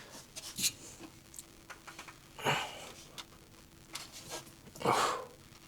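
A few short scrapes and knocks, about a second and then two seconds apart, from a breaker bar being worked on the crankshaft bolt of a seized 2.8 V6 to break it free.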